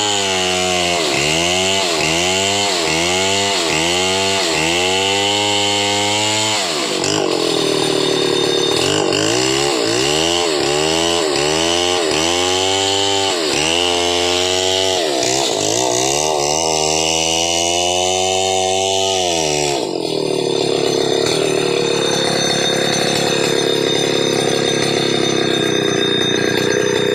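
Chainsaw running, its engine speed dipping and recovering about once a second, then holding steadier for the last few seconds.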